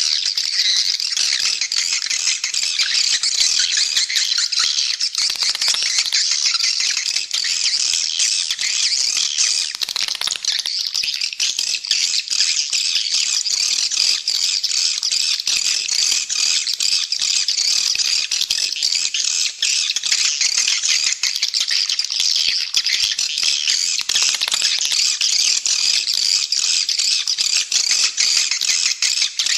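Edible-nest swiftlets calling in a dense, continuous chorus of rapid high chittering and twittering. This is a swiftlet lure call ('suara panggil'), the kind played at swiftlet houses to draw birds in to roost and nest.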